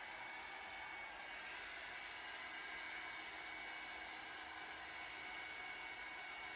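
Revlon One-Step hair dryer brush running steadily on low heat: a constant rush of blown air with a faint high whine from the motor.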